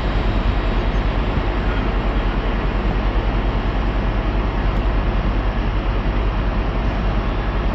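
A train at the station running steadily, a loud, even drone with a strong low hum that does not change.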